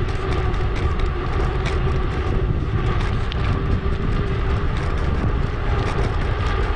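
Wind buffeting the microphone of a helmet- or bike-mounted action camera, with mountain-bike tyre and road noise underneath and small rattles. It is a steady rush played back sped up.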